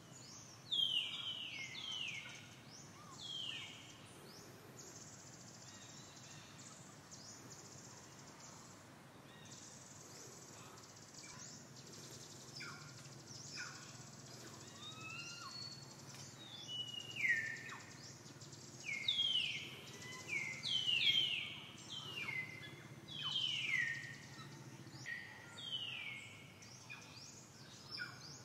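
Birds calling repeatedly: short whistled notes that each slide down in pitch, coming in bunches, a few near the start and many more through the second half, over a steady high hiss.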